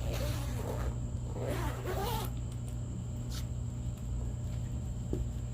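A cat crying with wavering meows, mixed with a zipper-like rasp, during the first two seconds, over a steady low hum.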